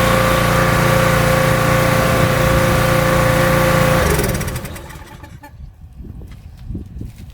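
Briggs & Stratton small engine on a pressure washer running steadily, then shut off about four seconds in, its pitch falling as it coasts to a stop. Faint scattered knocks follow.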